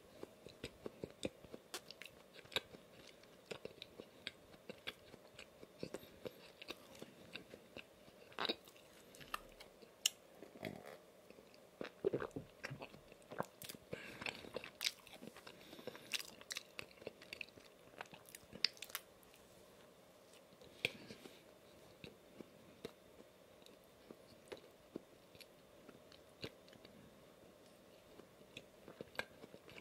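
Close-miked biting and chewing of a cookie-crumb-coated chocolate donut: soft crunches and wet mouth clicks. The chewing is busiest through the first two-thirds, thins out after that, and picks up again at the very end.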